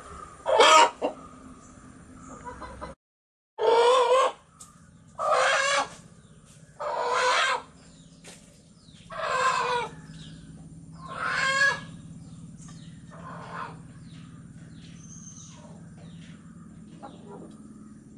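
Chickens giving seven loud, wavering calls, each under a second, about every two seconds, with faint high peeping between them. The sound cuts out completely for about half a second around three seconds in.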